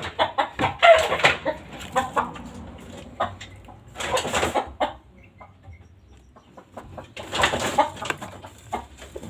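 Chickens clucking and squawking in short bursts, three times, among scattered light clicks and knocks.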